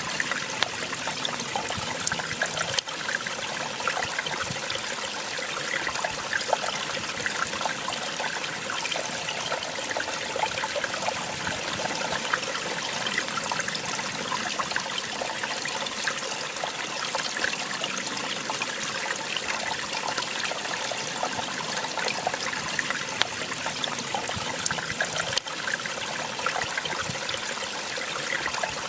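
Small waterfall splashing and trickling steadily, water spilling and babbling over rocks.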